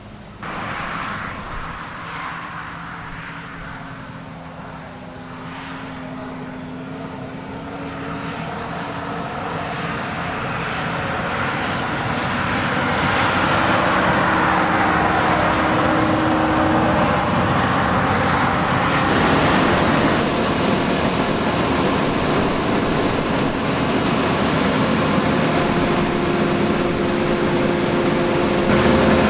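Diesel engine of heavy harvest machinery running and growing louder as it approaches, then holding steady and loud.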